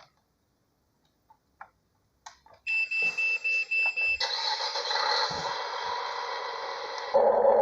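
A few faint clicks, then a quick series of about five short, high electronic beeps on one tone, followed by a steady noisy rush, with louder music starting near the end.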